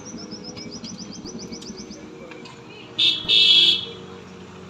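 A bird singing: a fast trill of short, high, falling chirps for about two seconds, then a loud, harsh call in two parts about three seconds in. A steady low hum runs underneath.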